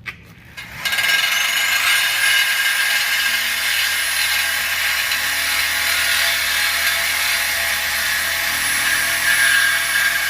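A high-speed power tool starts up less than a second in, its whine rising for about a second and then holding steady over a dense high hiss.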